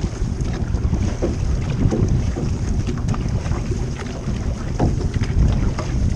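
Wind buffeting the microphone, with water splashing irregularly around a paddled outrigger canoe.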